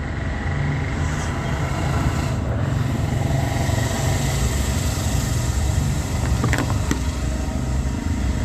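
A motor vehicle's engine running close by, a steady low rumble that swells at the start and holds, with a couple of sharp clicks about six and a half seconds in.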